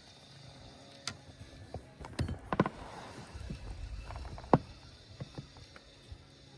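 Scattered knocks and clatter of gear against a small boat's hull, the loudest about two and a half and four and a half seconds in.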